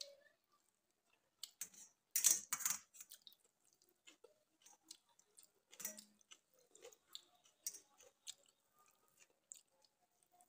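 Close-up chewing and wet mouth clicks of a person eating water-soaked rice (panta bhat) by hand, loudest in a burst about two seconds in. Later come soft wet squelches as fingers mix the rice in its water.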